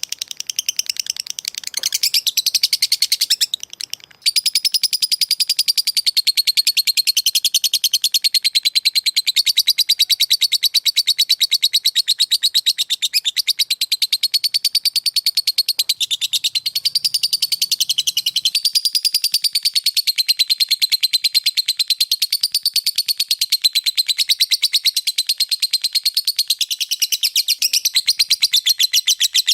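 Lovebird singing 'ngekek': a long, unbroken, very rapid chattering trill with a high pitch that wavers up and down. After a brief break about four seconds in, the trill runs on without stopping.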